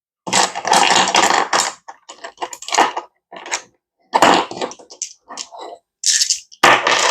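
Rustling and clattering as hands get a dice tower and a set of dice out: several loud crinkly bursts about a second long, with short clicks and rattles between them.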